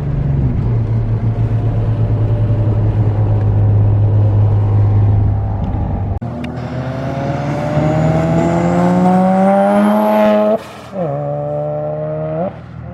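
A car engine gives a steady low drone for about six seconds. Then it accelerates hard, its pitch climbing for about four seconds before dropping sharply at a gear change or lift. It climbs again briefly and drops again near the end.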